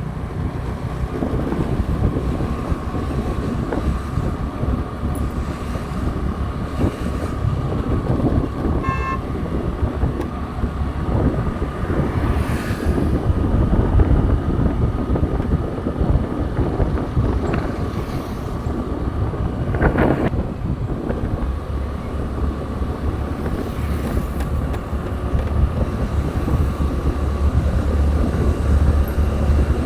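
Motorcycle riding along a road: engine running under heavy wind rumble on the microphone, with a short horn toot about nine seconds in.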